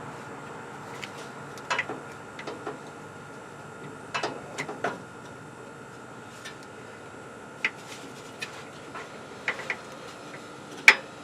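Scattered light metallic clicks and clinks of a socket and extension being worked by hand onto a starter mounting bolt, irregular, with one louder clink near the end.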